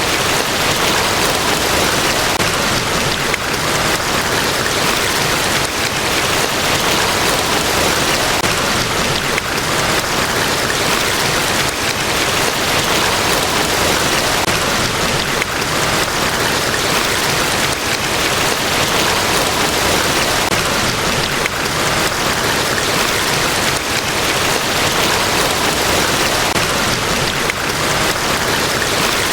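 Large waterfall: a steady, even rush of falling water with no break or change.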